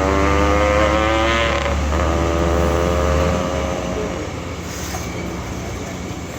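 A vehicle engine accelerating, its pitch rising, then dropping with a gear change and rising again. The engine fades out about three and a half seconds in, leaving a lower, steady rumble of traffic.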